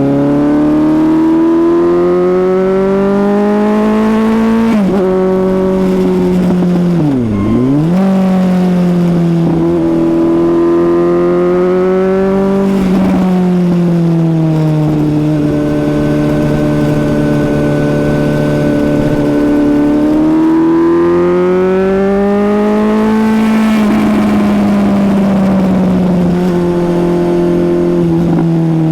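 Suzuki GSX-S750's inline-four engine pulling hard up through the gears. The revs climb and drop sharply at each upshift, dip and recover about seven seconds in, hold steady for several seconds mid-way, then climb again and fall away near the end as the bike slows.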